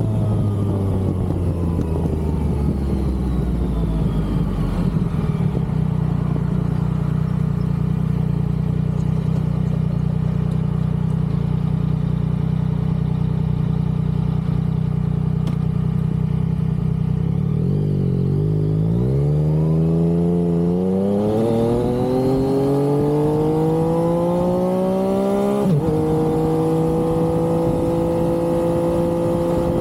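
Yamaha XSR900's inline-three engine under way. The revs fall away at first and then hold low and steady for a long stretch. About two-thirds of the way through they climb, dip sharply at an upshift, then run steady at a higher pitch.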